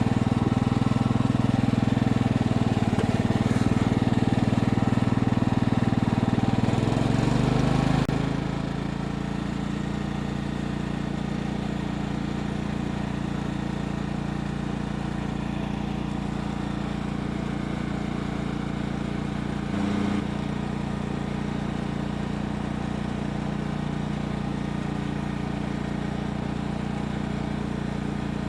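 Riding lawn mower engine running steadily as the mower drives along. About eight seconds in, the engine note shifts and gets somewhat quieter, then runs on steady, with a brief bump near twenty seconds.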